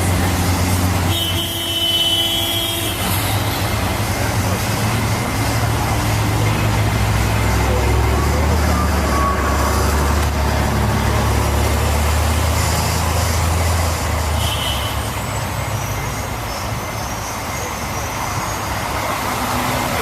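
City street traffic with a deep, steady low rumble that eases off about fourteen seconds in, which the recorder takes for a booming sound coming from the sky. Brief high squeals come about a second in and again around fourteen seconds in.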